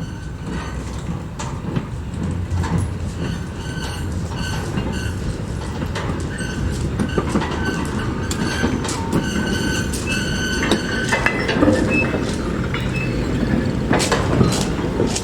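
Railway train rolling past, its wheels clicking over the rail joints with short high-pitched wheel squeals, growing louder toward the end.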